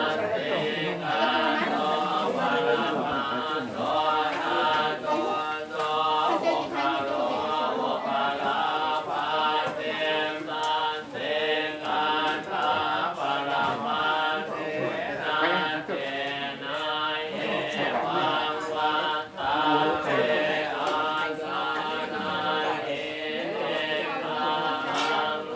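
Buddhist chanting by a group of voices, a steady, continuous recitation.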